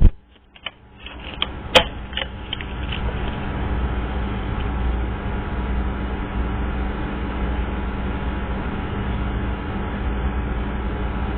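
A few light clicks, then a steady mechanical hum and hiss that builds over the first few seconds and then holds level.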